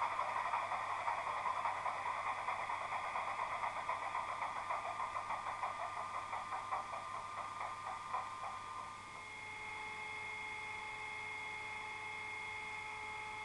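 Bachmann Class 25 model's DCC sound decoder playing its diesel engine sound: the engine's beat slows and fades as it winds down. At about nine seconds it settles into a steady idle with a constant whine.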